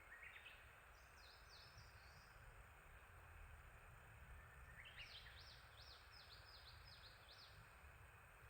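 A small songbird singing two short phrases, each a few quick rising notes followed by a run of rapid repeated high sweeping notes; the second phrase, about five seconds in, is the longer, with about seven notes. Faint, over a steady background hiss.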